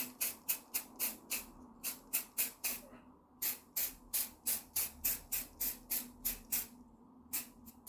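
Aerosol spray paint can sprayed in quick short bursts, about three or four hisses a second, with brief pauses about three seconds in and near the end.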